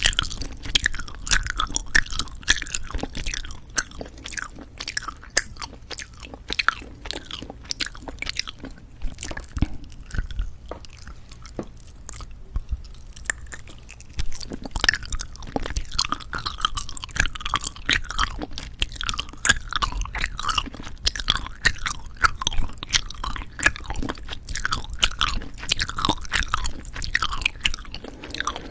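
Close-miked chewing and biting of jelly candy, a rapid run of mouth clicks and smacks that thins out for a few seconds about a third of the way in, then picks up again.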